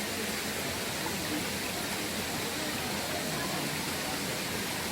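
Steady rushing of a mountain stream, an even hiss with no breaks, with faint voices under it.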